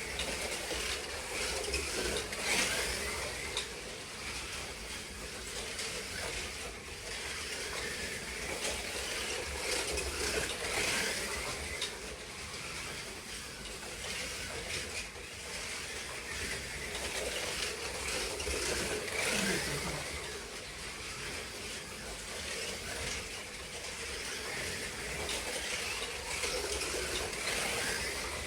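Slot cars lapping the track: their small electric motors and gears whirring, with the tyres and pickups hissing on the track, rising and falling every few seconds as the cars pass.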